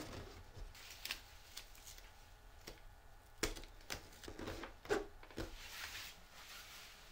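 Irregular light clicks, taps and rustling of parts being handled, with the sharpest knocks about three and a half and five seconds in.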